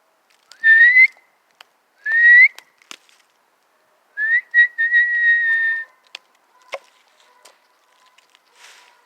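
A person whistling to call birds: two short rising whistles, then a longer whistle that rises, breaks twice and is held, falling slightly.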